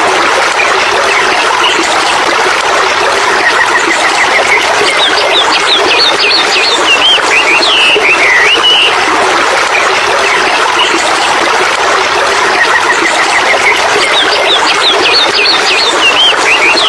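Steady rushing water, like a stream, with a songbird singing over it: a phrase of quick chirps ending in swooping whistles, heard twice.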